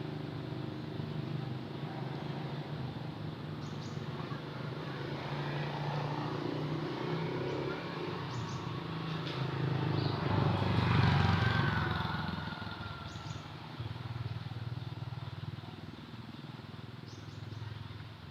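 A motor vehicle engine running steadily, growing louder as it passes close by about halfway through and then fading away, with a few faint bird chirps.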